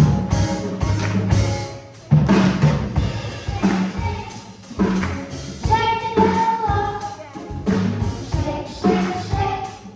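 Children's gospel choir singing over a band, with a drum kit beating out a steady rhythm and a held sung note about six seconds in.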